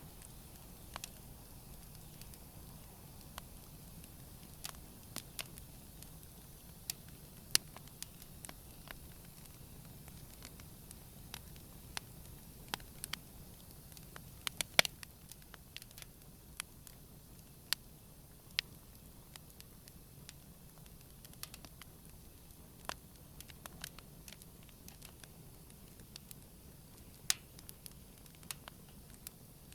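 Campfire burning, the wood crackling with irregular sharp pops over a low steady hiss; a few pops, about a third of the way in and near the middle, stand out louder.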